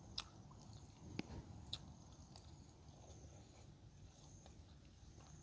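Faint chewing with a few soft mouth clicks and smacks as frog meat is eaten off the bone by hand, most of the clicks in the first two seconds.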